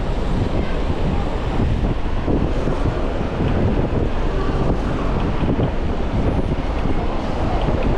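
Wind buffeting a chest-mounted action camera's microphone as the bike moves, a steady loud noise strongest in the low end, with road traffic under it.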